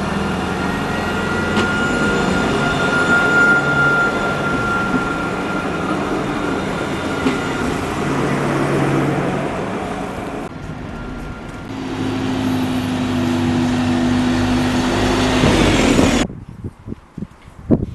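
A large vehicle running close by, steady and loud with a held whine, the sound changing about ten seconds in and cutting off abruptly near the end.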